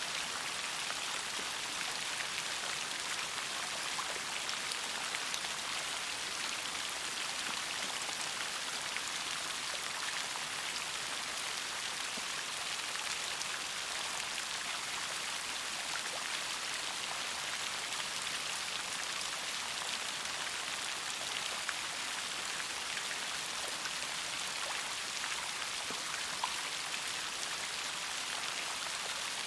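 Steady rain falling, a dense even hiss dotted with the ticks of individual drops striking a surface.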